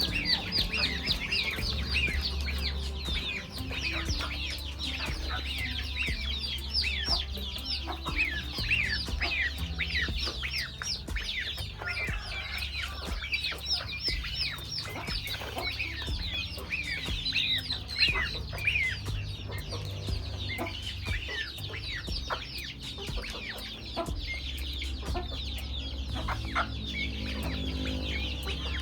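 Chickens clucking, with a dense run of short, high peeping calls throughout, over a steady low hum.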